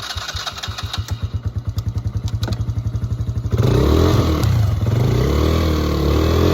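Polaris quad bike engine running with an even pulsing beat, then revving up about three and a half seconds in, its pitch rising and falling, as the machine tries to reverse off the tree stump it is beached on.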